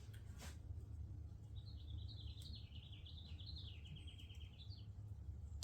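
A small songbird singing faintly, starting about a second and a half in: a warbling run of high chirps for about three seconds, ending in a quick trill, over a steady low hum.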